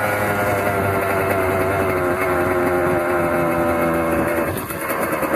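Kawasaki KX100 dirt bike's two-stroke single-cylinder engine running at steady revs, its pitch slowly sinking. About four and a half seconds in it drops off the throttle to a lower, uneven note.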